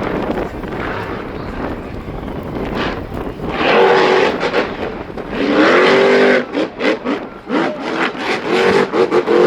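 A vehicle engine revving hard over a rushing background: pitch rises and falls about four and six seconds in, then a run of short, choppy throttle blips near the end.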